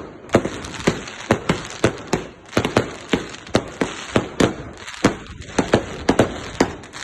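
Fireworks going off: a rapid, irregular string of sharp bangs, about three or four a second, over a continuous crackle, with a brief lull a little over two seconds in.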